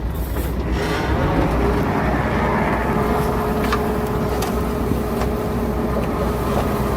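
Heavy diesel earthmoving machinery running steadily, a deep rumble with a steady whine that comes in about a second and a half in and a few sharp metallic knocks.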